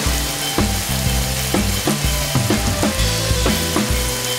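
Diced chicken, onion and tomato sizzling as they fry in oil in a nonstick pan. Under it runs background music with a steady beat of about two a second.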